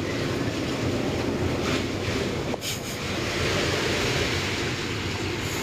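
Steady downpour of heavy rain in a thunderstorm, an even roar, with a brief sharp click about two and a half seconds in.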